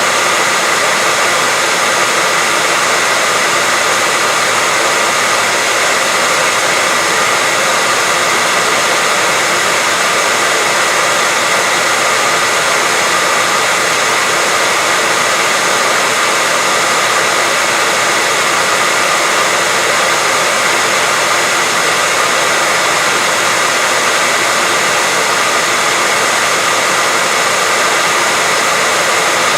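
Continuous white noise: an even, unchanging hiss, strongest in the higher pitches, with faint steady tones running through it.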